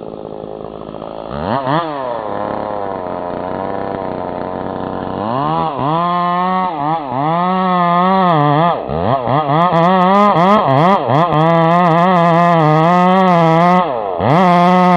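Two-stroke chainsaw engine revving up and down repeatedly, then held mostly at high speed, with a brief drop in revs near the end.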